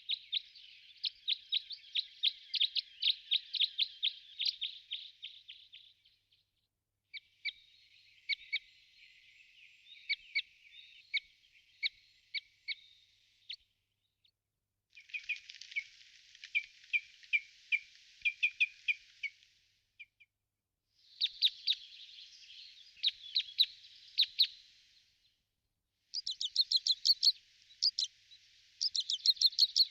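Small songbirds chirping in five separate bouts of rapid, high twittering, each a few seconds long, broken by a second or so of complete silence.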